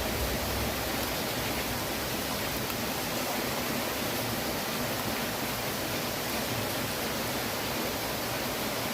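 Heavy rain pouring down, a steady dense hiss with faint scattered drop ticks.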